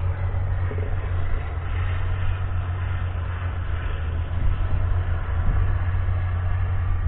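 Fendt 724 Vario tractor's 6.1-litre six-cylinder diesel engine running steadily, with a strong deep hum and no marked change in revs.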